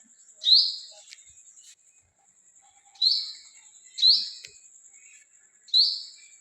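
A bird chirping: four short, sharp, high chirps, the middle two a second apart.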